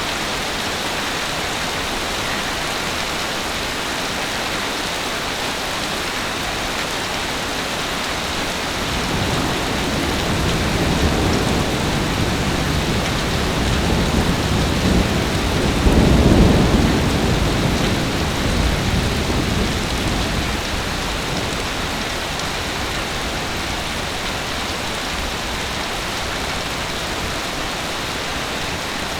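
Heavy rain falling with a steady hiss, while a long low rumble of thunder swells in about a third of the way through, peaks midway and slowly fades.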